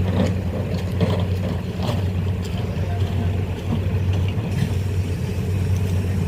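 A large engine running steadily with an even low drone.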